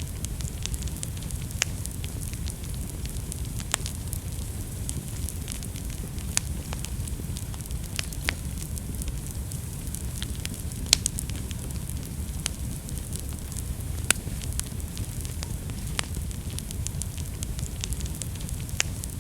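Wood fire burning in a fireplace: a steady low rumble of flames with irregular sharp crackles and pops throughout, a few louder pops about eleven and fourteen seconds in.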